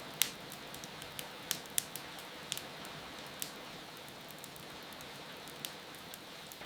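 Fireplace crackling over steady rain: a constant soft hiss of rainfall with sharp, irregular pops and snaps from the burning wood, the loudest just after the start.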